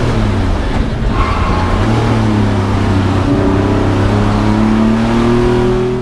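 Vintage race car engine under hard throttle. Its pitch drops near the start, then climbs steadily as the car accelerates.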